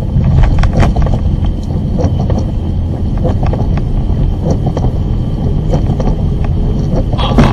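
A car driving, with a steady low rumble of engine and road noise and scattered light knocks and rattles.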